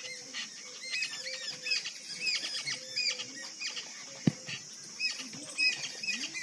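Many short, high-pitched chirps of small birds repeating throughout, over a steady high insect hiss. One sharp thump about four seconds in.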